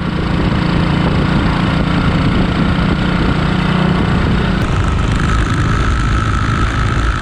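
1941 Matchless G3L WD single-cylinder motorcycle engine running steadily while the bike is ridden along a road. A thin, steady high tone joins about five seconds in.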